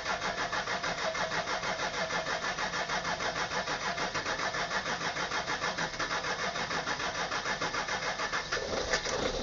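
Jaguar S-Type 2.7-litre V6 diesel being cranked over by its starter on a cold start at −8 °C after standing three days. It is a long crank with about five or six even pulses a second, and the engine catches roughly near the end.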